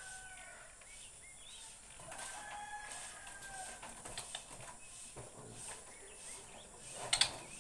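A rooster crowing twice in long, drawn-out calls, with a few short whistled bird notes in between. A quick cluster of sharp clicks comes near the end and is the loudest sound.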